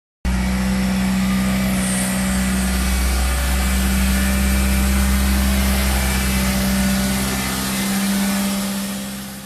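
2001 Maruti Suzuki Zen's 1000 cc petrol engine idling steadily shortly after a cold start, fading out near the end.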